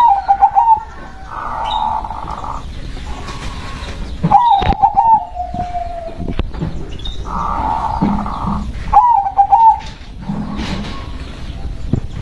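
Zebra dove (perkutut) cooing: three phrases of quick, warbling coos ending in a drawn-out note, repeating about every four to five seconds.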